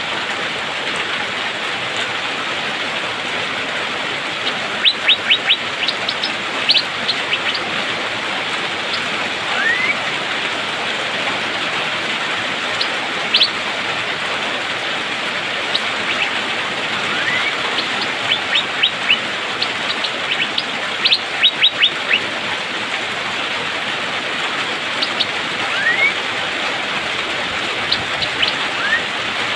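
Asian fairy-bluebird (cucak biru) calling in short groups of sharp, rapid high chirps and a few quick rising whistles, over a steady rush of rain.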